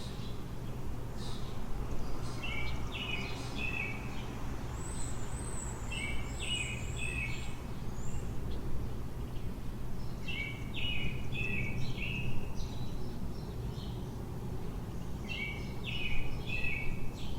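A songbird singing short, quick phrases of clear notes, four times about four seconds apart, with a second, thinner and higher-pitched song in between. A steady low city rumble runs underneath.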